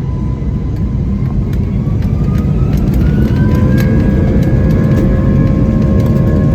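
Airbus A320's IAE V2500 engines spooling up, heard from inside the cabin: a deep steady rumble grows louder while a whine rises in pitch over a couple of seconds and then holds steady, as takeoff thrust is set.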